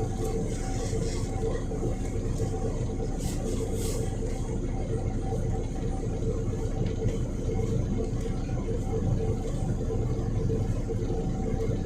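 Volvo B7RLE single-decker bus running, heard on board: a steady engine rumble with a steady whine over it.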